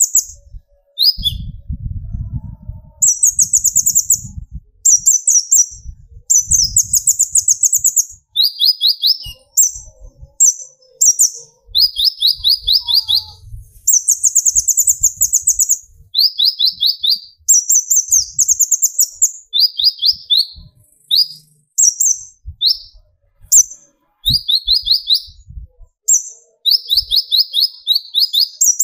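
Kolibri ninja (konin) sunbird singing its rapid 'tembakan' burst song: short, very fast high trills repeated one after another, switching between a higher and a somewhat lower pitch. Faint low thumps can be heard in the first few seconds.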